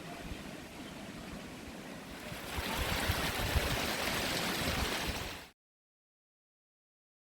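Steady rushing of the waterfall's falling water, getting louder about two and a half seconds in, then cutting off suddenly to total silence about five and a half seconds in.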